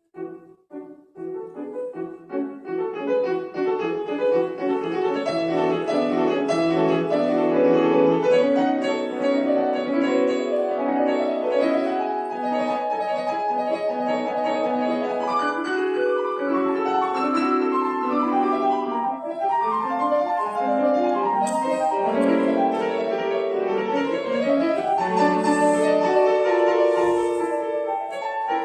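Solo piano playing a classical-style piece. It opens with a few separate notes, and from about two seconds in it becomes a dense, continuous run of notes.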